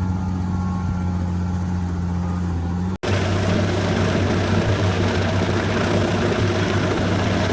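A heavy machine engine running steadily with an even low hum. About three seconds in, the sound cuts off abruptly, and a louder, rougher machine noise with an engine running underneath takes over.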